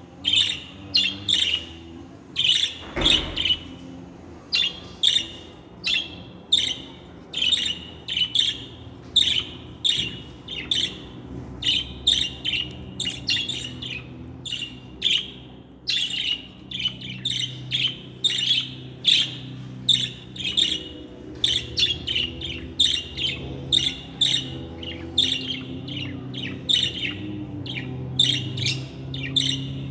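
Budgerigars chirping and squawking in a steady run of short, sharp calls, often several in quick succession, with a single low thump about three seconds in and a faint low hum underneath.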